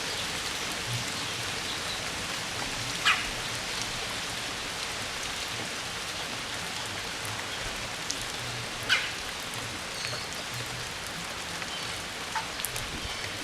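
Red-bellied woodpecker giving two short rolling calls about six seconds apart, over a steady rain-like hiss.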